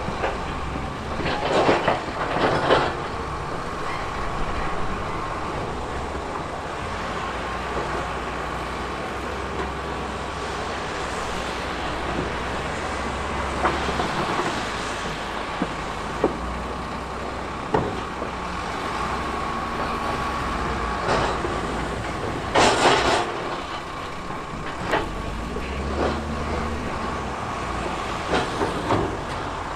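Diesel earthmoving machinery running steadily, with intermittent metallic clanks and scrapes of rock, the loudest a burst about 23 seconds in.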